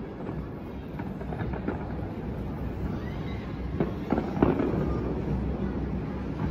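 Distant aerial fireworks bursting: a run of sharp bangs and pops, the loudest a little past the middle, over a steady low rumble.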